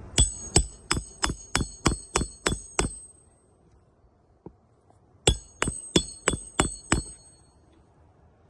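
Hammer blows with a high metallic ring, in two quick runs: about nine strikes at roughly three a second, a pause of a couple of seconds, then six more.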